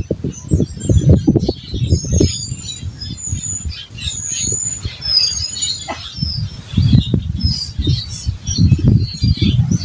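Birds chirping with many short, high calls, over loud, uneven low rumbling.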